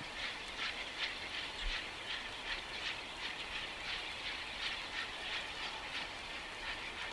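A train running on the rails, with a quick, uneven run of short clacking beats about two to three a second.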